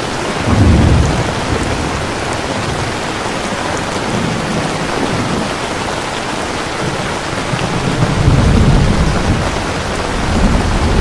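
Steady heavy rain with rolls of thunder: a low rumble swells about half a second in, a longer roll around eight seconds in, and another begins near the end.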